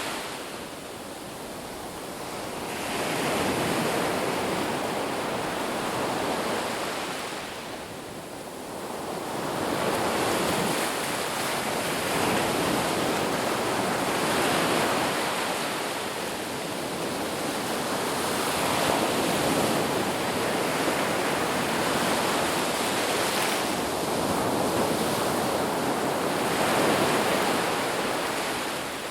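Sea waves washing onto a shore, a continuous rush that swells and falls back every few seconds.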